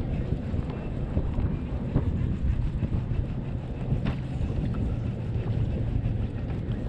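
Wind buffeting the microphone over water slapping against a fishing kayak's hull, a steady low rumble with a few faint knocks.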